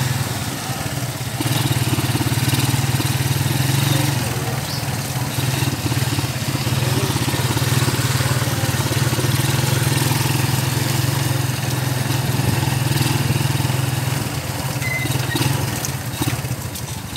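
Motorcycle engine of a motor tricycle running steadily under way on a muddy dirt road, a loud, even drone over road and wind noise, fading just before the end.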